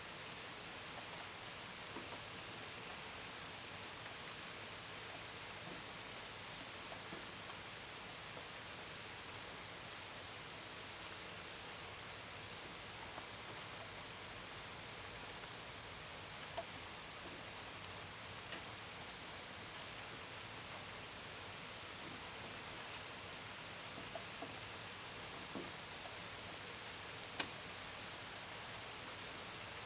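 Steady rain hiss with crickets chirping in a continuous high, pulsing band. Scattered drops tick sharply now and then; the loudest comes near the end.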